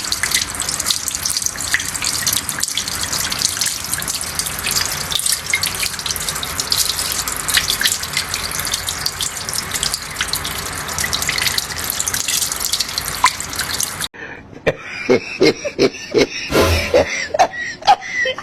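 Rushing, splashing water: a steady noisy hiss full of small crackles, typical of floodwater or a downpour. It cuts off abruptly about fourteen seconds in, and voices and knocks follow.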